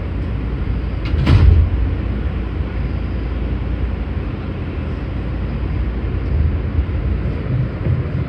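Passenger train running with a steady low rumble, and one sharp clank about a second in.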